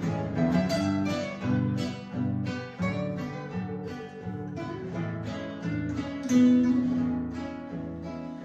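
Instrumental music between sung verses: acoustic guitar picking a melody, with many short plucked notes.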